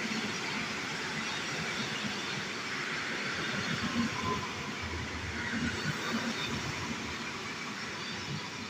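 Train moving along the tracks, a steady rumble of wheels on rail that slowly fades as it draws away.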